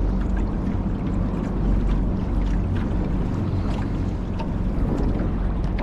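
Boat underway on the river: a steady low engine drone mixed with wind on the microphone and water noise.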